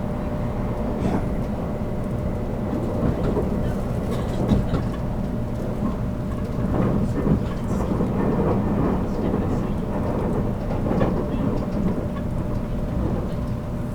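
Interior running noise of a JR Kyushu 783 series electric train's motor car: a steady rumble with occasional knocks from the wheels over rail joints.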